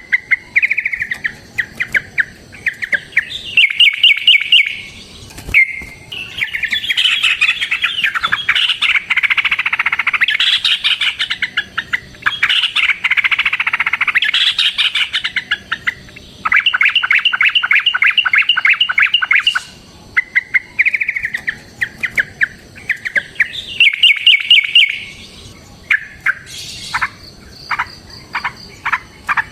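Yellow-vented bulbuls (trucukan) calling in the long, rapid trills sold as a "gacor" lure song. Bursts of fast, evenly repeated notes last a few seconds each, with a stretch of dense, overlapping chattering in the middle.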